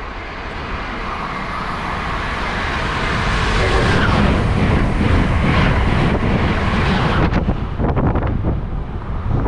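A train passing at speed. A rushing noise grows louder over the first few seconds and stays loud, with quick, uneven clacks of wheels over the rails in the last couple of seconds.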